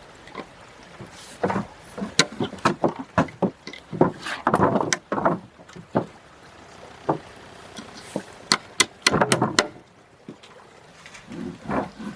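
Irregular sharp knocks and clatters in two clusters, a few seconds apart, with scraping noise among them.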